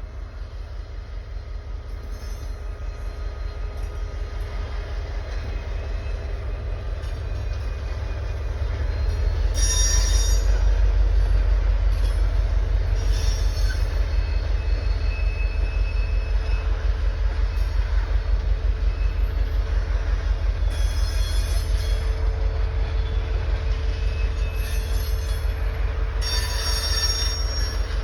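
A train passing close by with a heavy low rumble that builds over the first ten seconds and then holds steady. High-pitched wheel squeal cuts in briefly several times: about ten seconds in, around thirteen seconds, and three more times in the last eight seconds.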